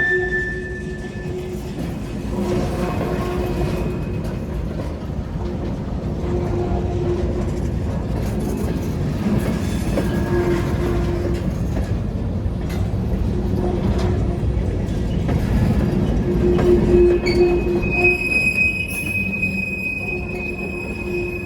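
Freight train rolling past with a continuous low rumble of its cars and short, repeated squeals from the wheels. About three-quarters of the way through, a sharp, high, steady wheel squeal sets in and holds.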